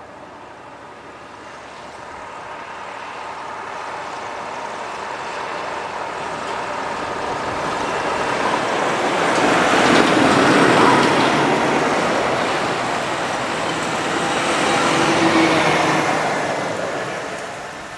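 Heavy truck driving past, its engine and tyre noise swelling to a peak about ten seconds in, then rising again a few seconds later before fading away.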